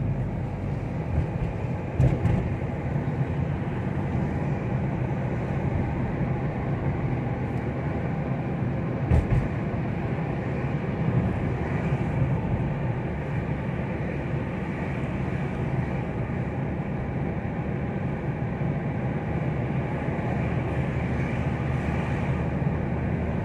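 Steady road and engine noise of a car driving along, heard from inside the cabin, with two brief thumps about two and nine seconds in.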